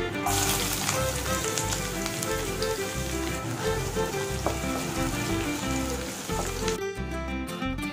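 Sliced shallots and garlic sizzling as they hit hot oil with popped mustard seeds in a non-stick kadai and are stirred. The sizzle starts right away and dies down just before the end.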